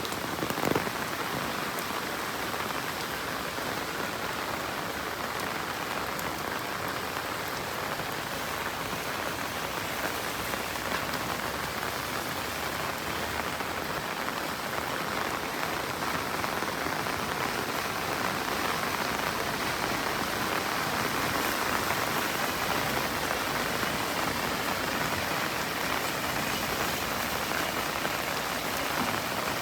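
Steady monsoon rain falling on surfaces, an even hiss. A single sharp tap or knock stands out less than a second in.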